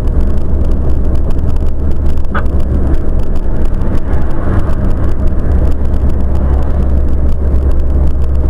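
Car cabin noise heard from a dashcam while driving: a steady, loud low rumble of engine and road, with one brief click about two and a half seconds in.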